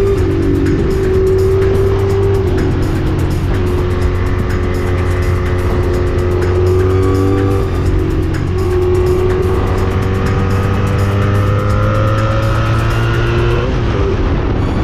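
Honda Magna V65's V4 engine with a Kerker 4-into-1 exhaust, pulling hard under acceleration. Its pitch climbs slowly and drops at each of several gear changes, with steady wind and road noise underneath.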